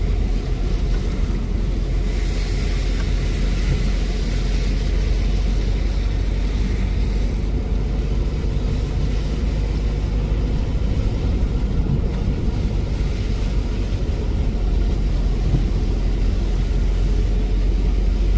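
Steady low rumble of a car driving, road and engine noise heard from inside the moving vehicle, unbroken throughout.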